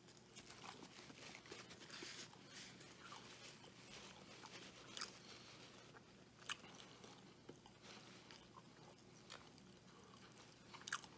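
Faint chewing of a mouthful of burger, with a few soft clicks scattered through; otherwise near silence.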